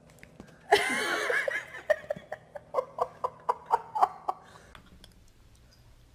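A person laughing: a loud squealing burst about a second in, then a run of short giggling bursts at about four a second that die away after about four seconds.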